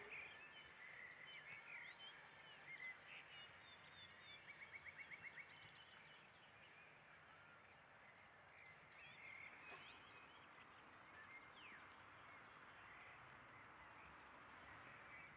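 Faint outdoor birdsong: scattered short chirps and whistles from several birds, with a quick run of about ten rapid notes around five seconds in, over a faint steady hiss.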